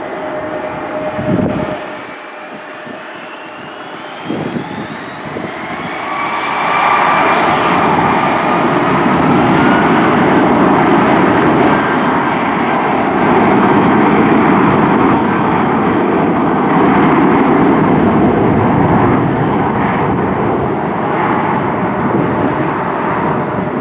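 Jet airliner engines passing close. A whine rises in pitch, then from about six seconds in a loud, steady roar builds and holds.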